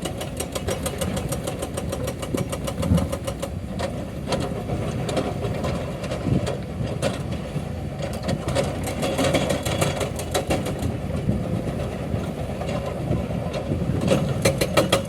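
Excavator's hydraulic breaker hammering rock, limestone, in fast, even blows over the diesel engine running under load. The blows come thick near the start and again near the end and are sparser in between.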